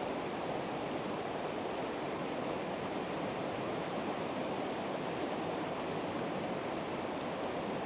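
Steady rushing of a river, with a few faint crackles from a campfire of split evergreen wood about three and six seconds in.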